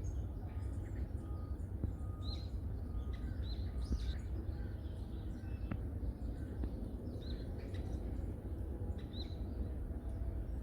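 Small birds chirping in a forest: short high calls every second or two, over a steady low rumble.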